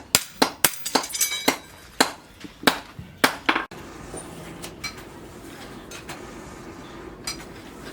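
Hammer blows on steel at the anvil: about ten sharp, irregular strikes over roughly three seconds, some with a metallic ring. The blows stop a little past halfway, leaving a steady low background noise.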